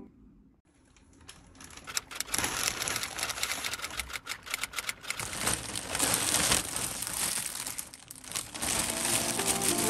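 Plastic packaging crinkling and rustling as it is handled: a courier mailer bag being opened and a plushie in clear plastic wrap pulled out. It starts about a second in after a moment of near silence, and soft music comes in near the end.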